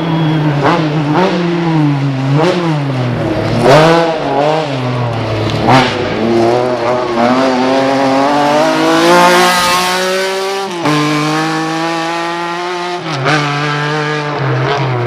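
Lancia Stratos's Ferrari Dino V6 being driven hard. The engine note swings up and down in quick revs with a couple of sharp cracks, then climbs steadily for about two seconds and drops suddenly at a gear change before running on steady.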